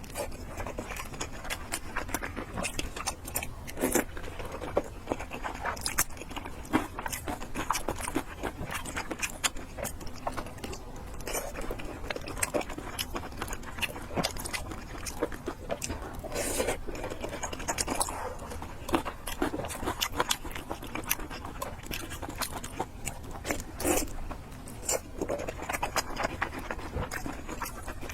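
Close-up mouth sounds of someone eating fried noodles and pork: chewing, with many small wet clicks and the odd scrape of cutlery.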